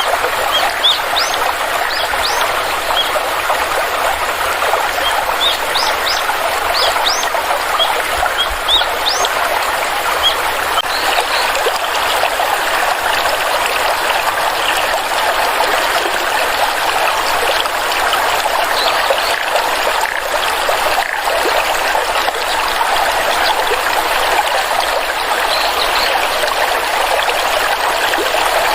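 Small forest stream trickling and gurgling steadily, with short rising bird chirps over it, most of them in the first third.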